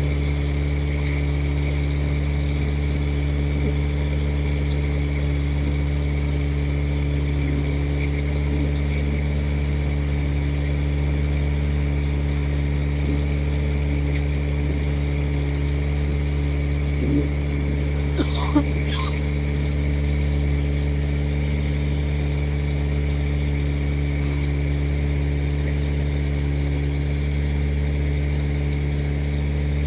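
Boat motor running at a steady, unchanging pace, with a couple of short, sharp sounds about eighteen seconds in.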